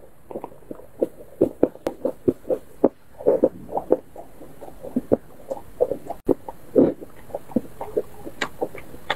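Chewing and biting into a jianbing guozi (Chinese egg crepe): a quick run of short chewing sounds, several a second.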